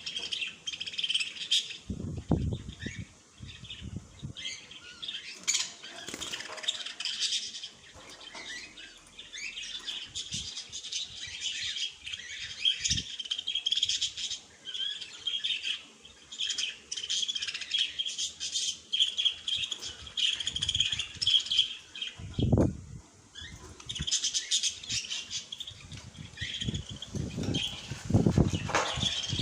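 Small birds chirping and twittering continuously in a dense, overlapping chorus of quick high notes. A few low soft thuds or flutters come in between, around 2 s, around 22 s and near the end.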